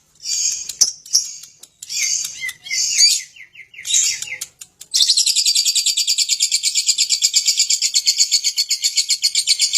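Lovebird singing: separate high chirps and short chattering phrases for about five seconds, then a long, fast, even trill of repeated chirps, about eight a second, that runs on without a break.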